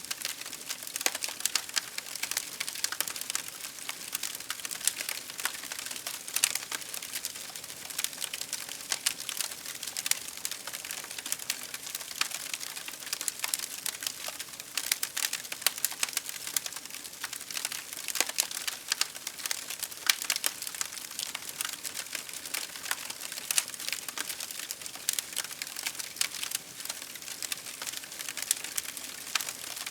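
Wood fire crackling: dense, irregular pops and snaps over a soft hiss of burning.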